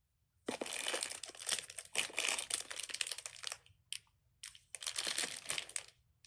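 Crinkly packaging being handled and crumpled in several bursts, with a short pause near the middle.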